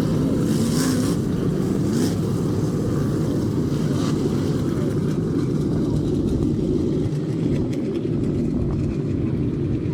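Dirt-track race car engines running on the oval, a steady, loud drone that holds without a break.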